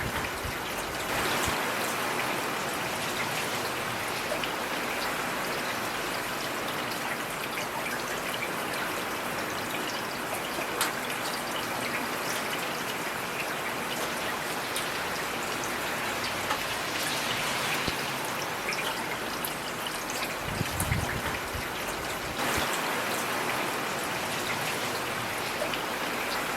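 Heavy rain falling steadily, a dense hiss full of single drop impacts, with a brief low thump about three quarters of the way through.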